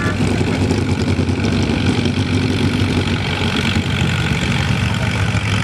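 Allis-Chalmers WC farm tractor's engine running steadily at the pulling track.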